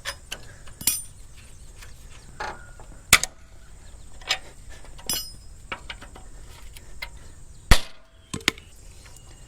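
Hammer and tool strikes on the steel of a sickle bar mower's cutter bar, working at broken bolts. The strikes come as a handful of sharp, irregular knocks, some with a brief metallic ring. The loudest comes about three-quarters of the way through.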